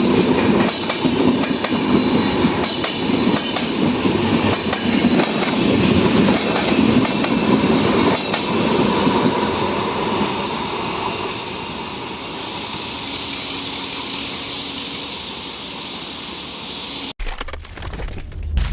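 LHB coaches of an express train rolling past at speed, with steady wheel-on-rail noise and repeated clicks. The noise eases off after about eleven seconds as the train recedes. Near the end the sound cuts abruptly to a different, booming sound.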